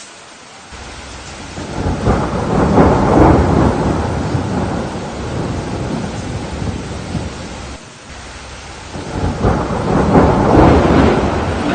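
Steady rain with two long rolls of thunder: the first swells about two seconds in and slowly dies away, and the second builds near the end.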